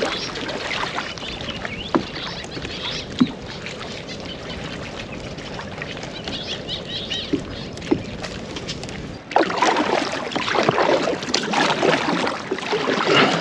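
Kayak paddling: water splashing and dripping off the paddle, with a few sharp knocks. About nine seconds in, the sound jumps abruptly to louder splashing with wind on the microphone.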